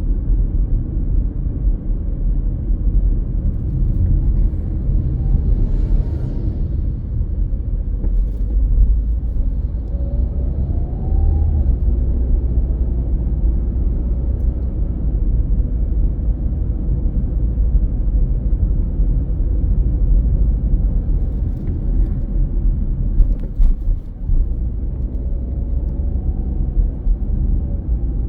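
Car driving, a steady low rumble of engine and road noise. A faint rising whine comes through about ten seconds in and again near the end.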